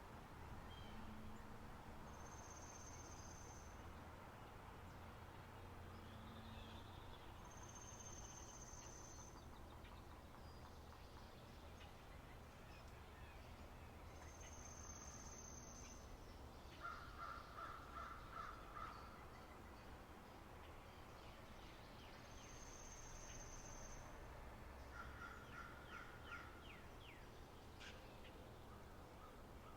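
Faint spring-meadow nature ambience: birds calling over a low steady background. A thin, high, steady note of about a second repeats every several seconds, and twice there is a short run of rapid harsher calls.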